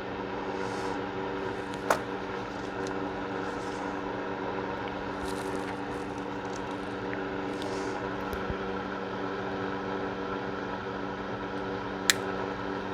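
Electric space heater running with a steady hum, its fan motor giving a few level tones. Two sharp clicks stand out, one about two seconds in and one near the end.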